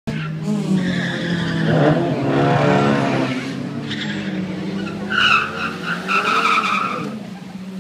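Infiniti G35 sedan's 3.5-litre V6 idling at the drag-strip line, revving up and back down about two seconds in. Short bursts of tire squeal follow from about five seconds in.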